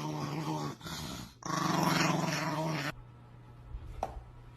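Dog growling in two long, steady growls, the second starting about a second and a half in and stopping about three seconds in.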